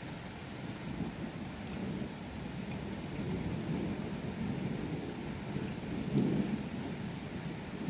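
Thunder rumbling over steady rain, the rumble swelling about three seconds in and again, loudest, about six seconds in.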